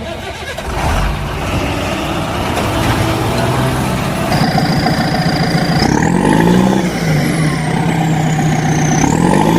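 A vehicle engine running, revving up twice: once about midway and again near the end. A thin high whistle holds, sweeps up, then glides slowly down over the second half.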